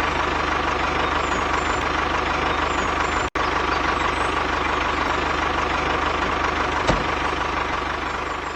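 Engine idling steadily, with a momentary dropout about a third of the way in.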